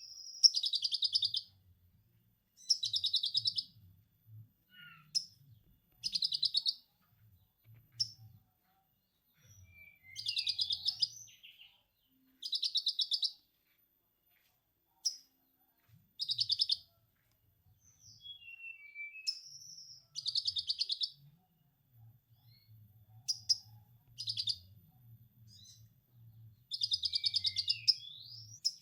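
Konin singing lovebird-style 'ngekek' material: bursts of rapid chattering trill about a second long, repeated every two to three seconds, with short whistled notes and slurs between them.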